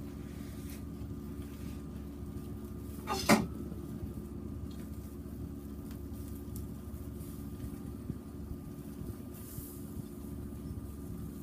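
A steady low hum throughout, broken by a single sharp knock with a brief rattle about three seconds in.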